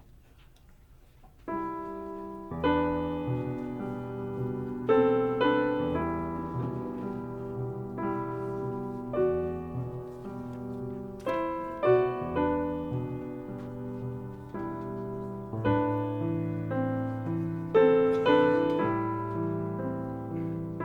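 Jazz piano playing slow, ringing chords, each struck and left to fade over a second or more, coming in about a second and a half in after a near-silent start.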